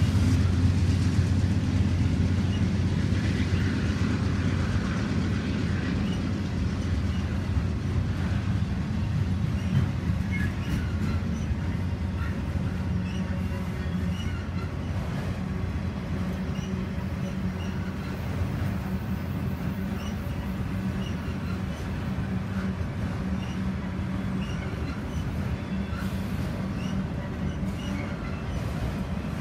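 Freight train of autorack cars rolling past: a steady rumble of wheels on rail, with faint scattered clicks. The rumble slowly eases off.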